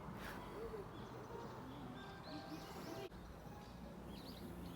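Faint bird chirps, a few short high calls about two seconds in and again near the end, over low steady outdoor background noise.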